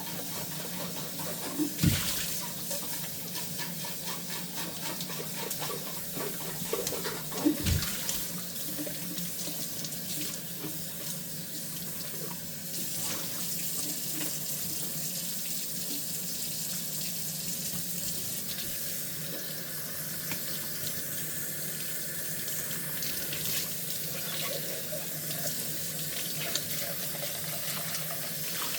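Kitchen tap running steadily into a sink while dishes are washed by hand, with two loud knocks of crockery in the sink a few seconds apart and small clinks.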